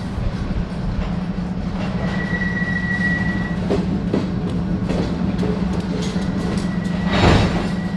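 Freight train rolling slowly, heard from aboard its caboose: a steady low rumble with a faint high whine about two seconds in, and a short loud noise near the end.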